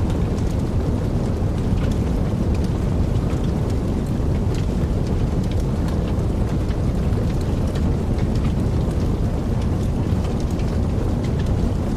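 Wood fire in a fireplace crackling: a steady low rumble of burning with frequent small sharp pops and snaps scattered throughout.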